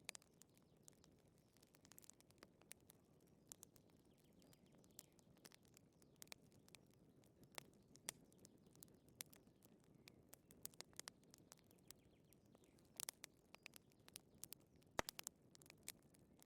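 Wood fire crackling: irregular small snaps and pops over a low, soft hiss of burning, with one sharper pop near the end.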